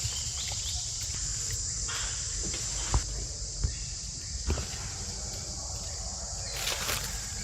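Insects droning steadily at a high pitch, with a few sharp clicks and a brief rustle near the end.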